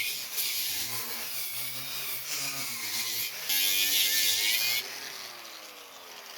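Angle grinder working on the steel of a car's windscreen pillar, its motor pitch dipping and rising under load over a harsh grinding hiss, loudest just past the middle. Near the end it is taken off the metal and winds down with a falling whine.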